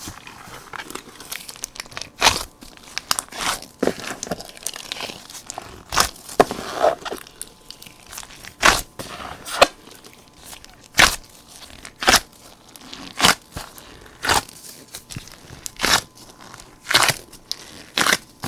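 Hands kneading a large mass of slime. Sharp, sticky pops and crackles come about once a second as it is pressed and folded, over a softer squishing crackle.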